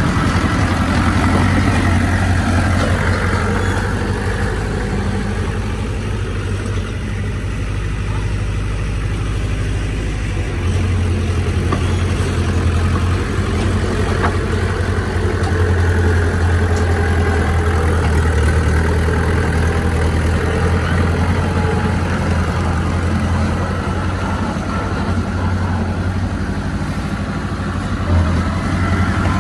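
Heavy diesel engine of earthmoving machinery running steadily with a deep low hum that eases and picks up again a few times as the load changes.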